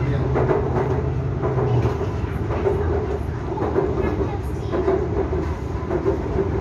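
Steady running noise heard from inside a Bangkok BTS Skytrain carriage moving along the elevated track, with a low hum that drops away about two seconds in.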